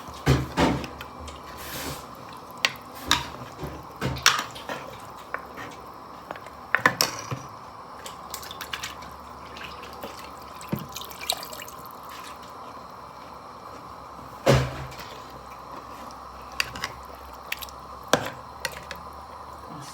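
Kitchen cooking sounds: scattered drips, pops and light taps, with a louder knock about fourteen seconds in, over a steady hiss.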